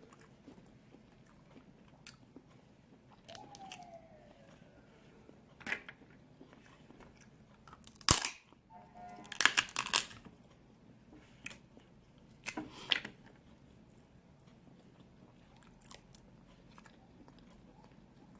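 Snow crab leg shells being cracked and snapped open while eating, with chewing, in scattered sharp crunches. The loudest cluster comes about eight to ten seconds in.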